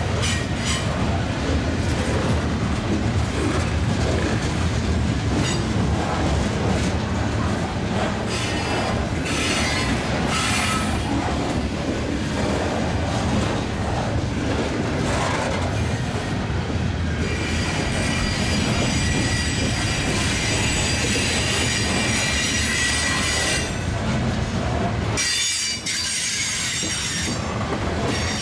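Covered hopper cars of a freight grain train rolling past, a steady rumble and clatter of steel wheels on rail. High-pitched wheel squeal rises over it in the second half, then fades a few seconds before the end.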